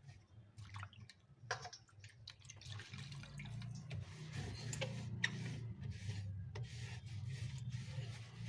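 Faint cloth wiping and water sounds as a damp cloth soaked in diluted Dettol is rubbed over the inside of a refrigerator, with scattered light clicks and knocks. A low hum comes in about three seconds in.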